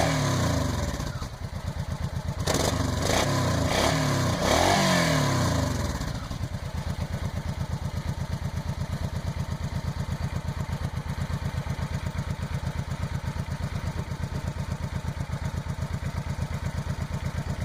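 Suzuki Boulevard C90B's V-twin through its stock exhaust, blipped up and back several times, then dropping to a steady idle with an even beat about six seconds in.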